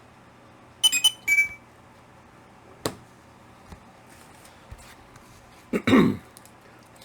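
A person coughing once, sharply, near the end. Earlier come a few short squeaky sounds and a single click.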